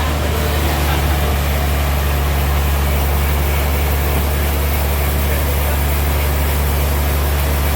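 Sawmill engine running steadily with a low, even drone that does not change.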